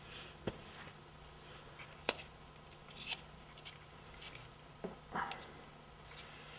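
Scattered small clicks and light rattling from hands working plastic connectors and clips on an engine wiring harness, with one sharp click about two seconds in, over a faint steady hum.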